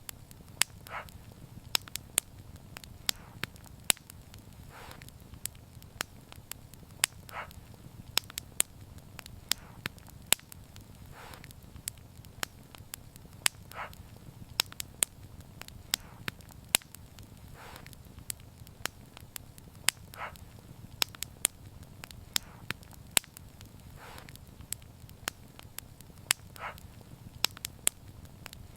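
Wood fire burning: frequent sharp crackles and pops over a low steady rumble of flame, with a soft hiss every few seconds.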